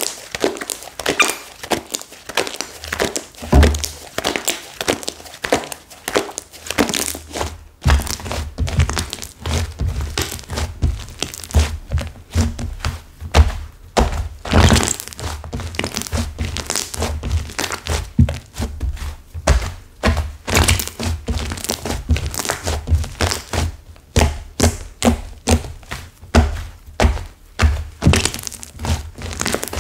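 Hands working a stiff, hardened clay slime: dense, irregular crackling and crunching with repeated dull thunks as it is pressed and squeezed, the thunks growing heavier about a quarter of the way in.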